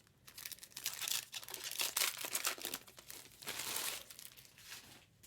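Trading card pack wrappers crinkling and tearing as packs are opened by hand, in irregular crackly bursts that die away near the end.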